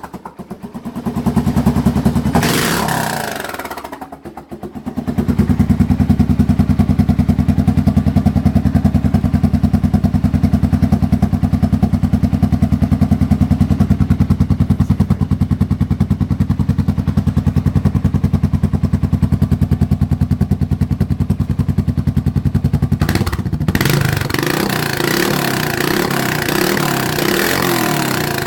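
Suzuki Boulevard S40's single-cylinder four-stroke engine breathing through a short reverse cone aftermarket muffler, loud. It revs up and falls back about a second in, then settles into a long steady run, and the sound changes to a rougher, noisier tone near the end.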